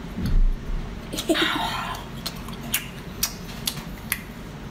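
A person chewing soft nama chocolate, with sticky mouth clicks about twice a second and a soft bump near the start.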